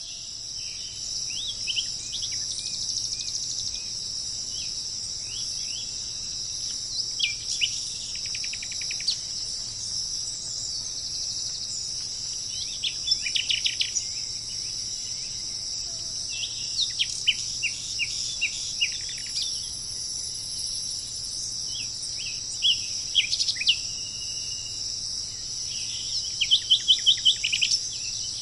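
Steady high-pitched insect drone, with a bird calling over it every few seconds: short falling notes and quick runs of clipped notes, the loudest run near the end.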